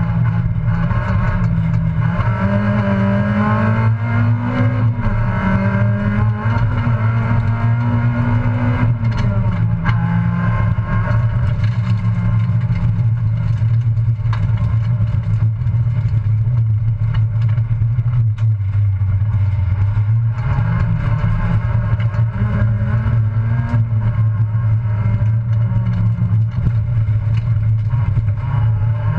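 Citroën Saxo race car's engine running hard, heard from inside the stripped, roll-caged cabin, its pitch climbing and dropping back several times as the car accelerates and lifts.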